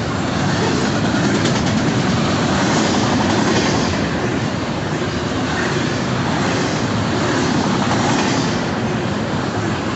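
Cars of a Union Pacific intermodal freight train rolling past: a steady, loud noise of steel wheels on rail.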